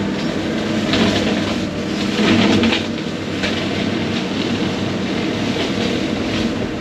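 Case 140 excavator's diesel engine running steadily, with irregular clattering and cracks over it.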